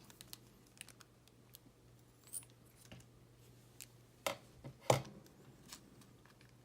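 Small clicks and taps of hands handling tiny screws and plastic model parts on a table, with two louder knocks about four and five seconds in.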